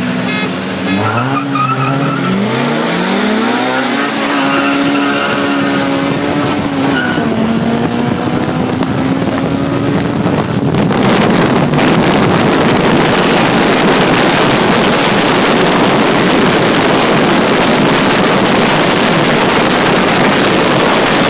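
Honda B20 VTEC four-cylinder accelerating hard from a standing start, its revs climbing and dropping back in steps through quick gear changes, then held high. About halfway through, a loud steady rush of wind and road noise at speed takes over.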